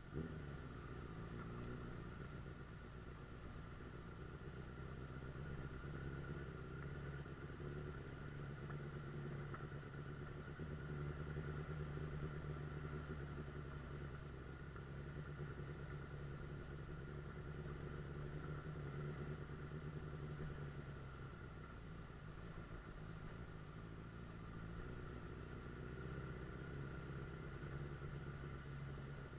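Suzuki GSF 600 Bandit S inline-four engine running steadily, heard while riding at a fairly even speed.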